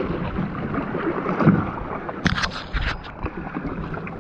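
Water sloshing and splashing around a canoe that has been swamped by boat-wake waves, with a cluster of sharper splashes or knocks a little past halfway.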